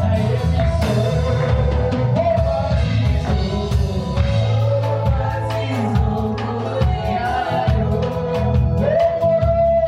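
A live gospel worship band playing with singing: sung melody over a bass line and a steady drum beat.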